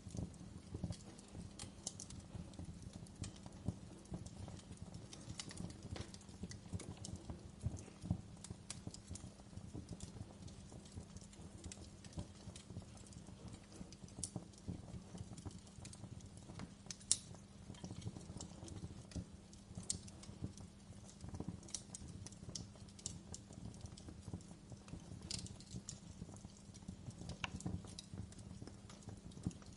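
Wood fire crackling in a fireplace: a steady low rumble of burning with many small irregular pops and crackles, and one sharper snap a little past halfway.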